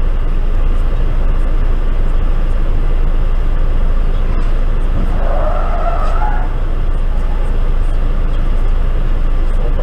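Steady road and engine noise of a car driving, with a brief wavering squeal about five seconds in.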